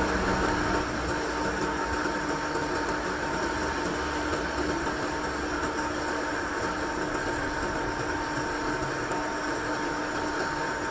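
A workshop machine running steadily: a constant mechanical hum with a steady whine over it.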